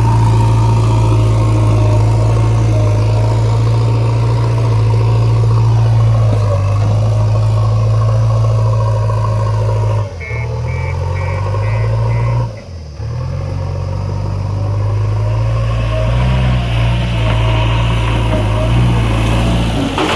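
Heavy diesel engine of loading machinery running with a steady low drone, dipping briefly twice about halfway through. Around the same time comes a quick run of about five short, high beeps.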